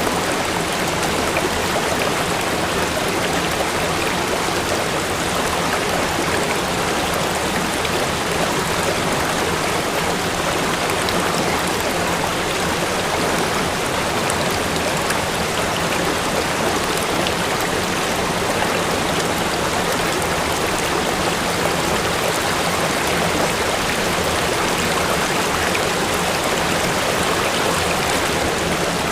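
Waterfall: a steady, loud rush of falling water that holds even throughout.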